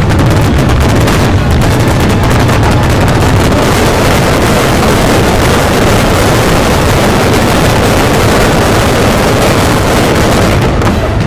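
Fireworks going off in a dense barrage, the bangs packed so close together that they merge into one continuous, loud roar.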